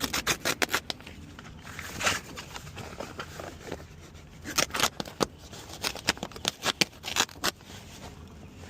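Hand tool work: irregular bursts of sharp clicks and snips, in several clusters with short pauses between.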